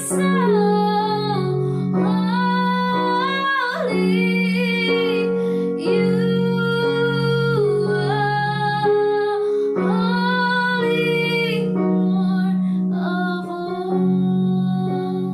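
A woman singing a worship song in phrases of a few seconds each, over instrumental accompaniment with held low chords.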